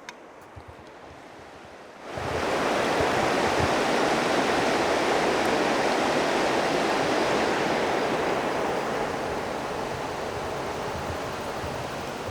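Steady rushing noise of flowing river water. It comes in suddenly about two seconds in and eases off slightly toward the end.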